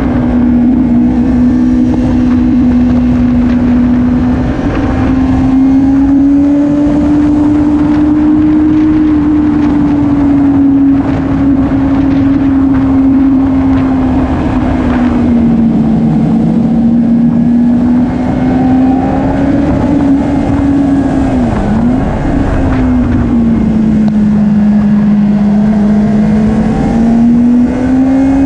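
Mini-twin race motorcycle engine heard onboard, held at high revs under hard riding. Its note rises and falls gently through the bends, with a quick dip and recovery about three-quarters of the way through. Wind rushes over the camera throughout.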